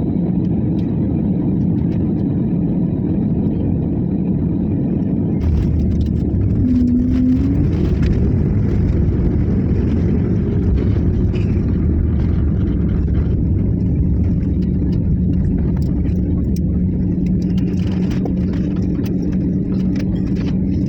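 Passenger aircraft noise: a steady low rumble that grows heavier about five seconds in.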